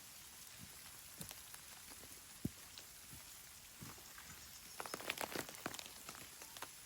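Light rain pattering with scattered drips, and a quick run of sharper taps about five seconds in.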